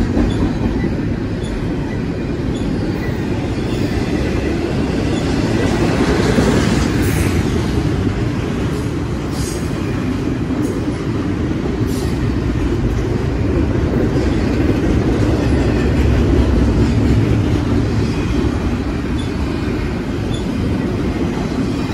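Double-stack intermodal freight train's container well cars rolling past close by at speed: a steady, loud rumble of steel wheels on rail.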